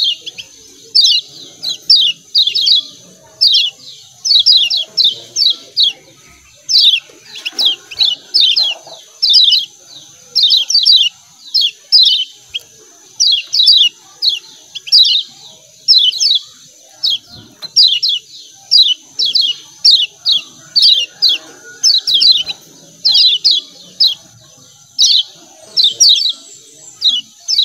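Kecial kuning (a Lombok white-eye) giving its 'ciak ciak' calls: short, sharp, high chirps in quick clusters of two to four, repeated over and over.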